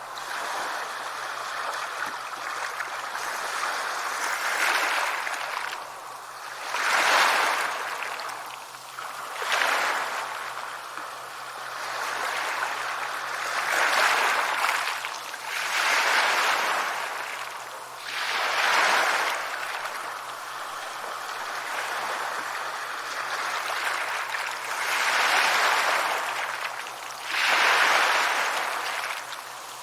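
Sea waves breaking and washing up a shore, the surf swelling and falling away every few seconds.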